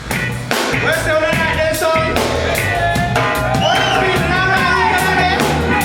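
Live reggae band playing: bass, drum kit and a singer's voice over the top.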